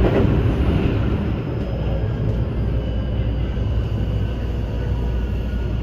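Electric train running: a steady low rumble with a few faint steady high tones above it.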